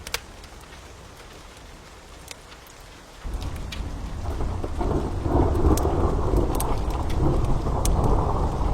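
Steady rain with a fire crackling and popping in sharp clicks; about three seconds in a roll of thunder starts suddenly and builds into a long, low rumble that becomes the loudest sound.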